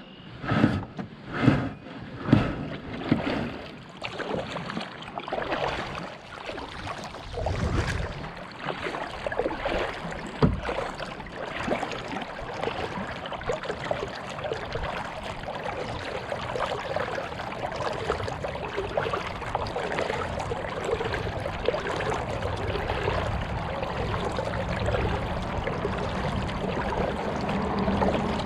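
Kayak on the water: a few heavy knocks against the hull in the first few seconds, then a steady wash of water splashing and trickling around the boat.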